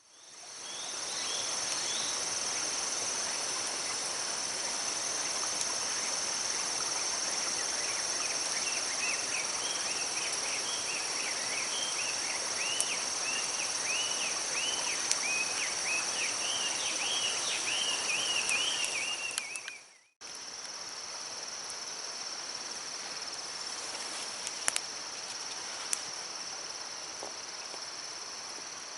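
Outdoor ambience of insects trilling steadily over the rush of a garden stream, with a run of quick rising-and-falling chirps for several seconds in the middle. The sound drops out abruptly about twenty seconds in, then the same insects and stream carry on.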